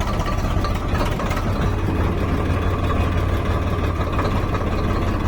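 Heavy vehicle's diesel engine running steadily with an even low hum.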